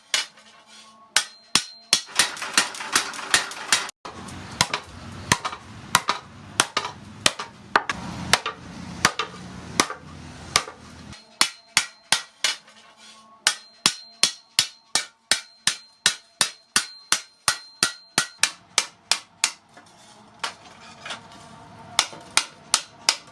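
Hammers striking steel from a disc plough blade on an anvil, about two blows a second, each with a bright metallic ring. A low rumble runs under the blows for several seconds in the first half.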